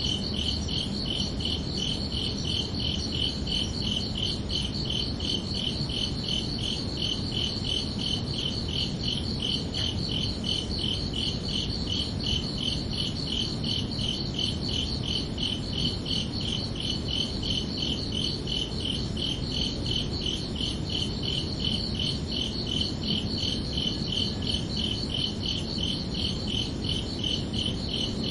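Crickets chirping in a steady, evenly spaced rhythm of high, thin pulses that never let up, over a constant low background hum.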